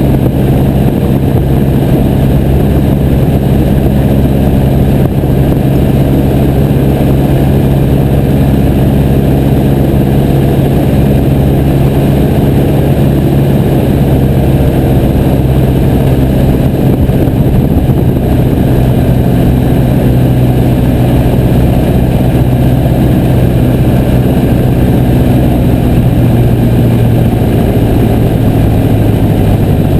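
Piper J3 Cub's engine running steadily, dropping slightly in pitch near the end.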